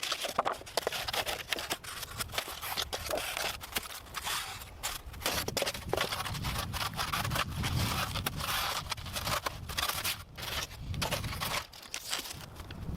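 Dense brush being cut and cleared with hand tools: a busy run of short sharp snaps and clicks over a rough rustling noise.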